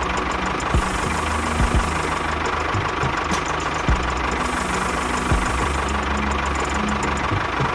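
An engine running steadily, a low rumble with a steady whine, broken by a few sharp knocks.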